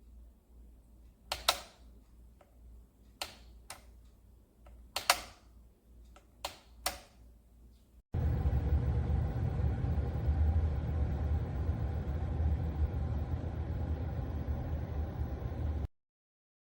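A handful of sharp clicks and knocks from handling the electric kettle, then an abrupt cut to a loud steady rumbling noise that stops suddenly about a second before the end.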